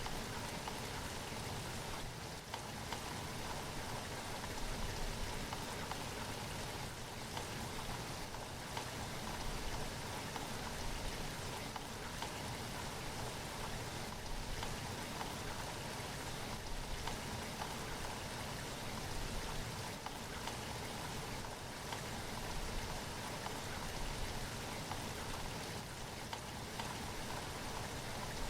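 Steady rainfall, a dense even patter of raindrops falling on a surface.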